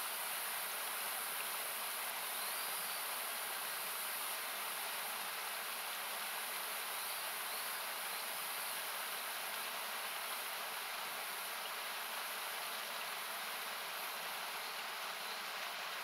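Steady rushing of a nearby mountain river, heard as an even, hissy noise with some bands cut out by an equalizer.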